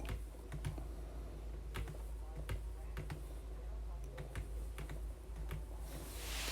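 Faint, irregular clicks of typing on a computer keyboard, with a brief soft hiss near the end.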